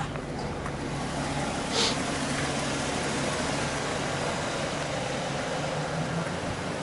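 Police cars idling: a steady low engine hum under a constant wash of noise, with one short hiss about two seconds in.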